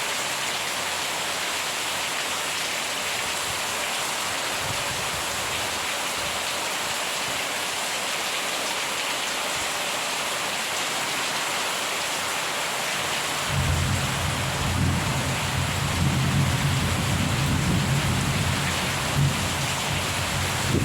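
Steady rain falling in a thunderstorm. About two-thirds of the way through, a deep rumble of thunder comes in suddenly and keeps rolling to the end.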